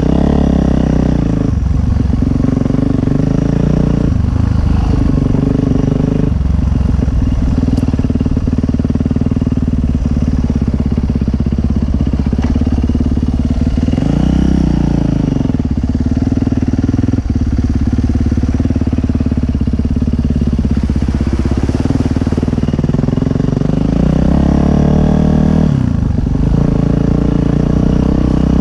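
Dirt bike engine running hard under way, its pitch dropping and climbing again several times as the rider revs and shifts.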